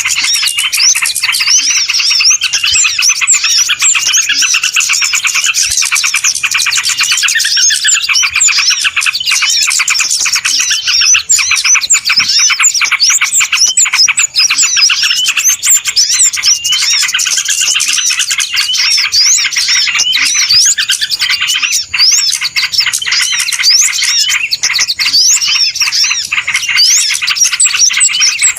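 A loud, dense, unbroken chorus of many small birds chirping and twittering together over one another: a noisy bird-lure recording used to attract small birds.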